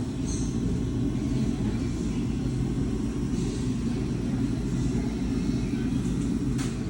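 Steady low rumble that eases off near the end.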